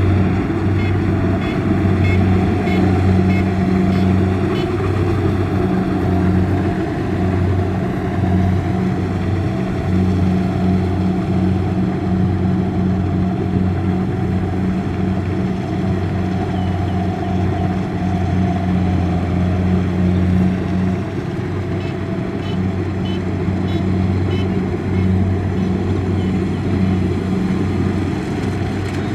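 Diesel engine of a Kubota DC-70 rice combine harvester running steadily at a constant pitch.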